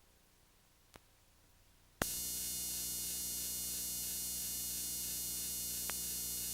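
Faint tape hiss with a single click, then about two seconds in a sudden switch to a steady loud hiss and buzzing hum. This is a VCR playing the blank tape after the recording ends.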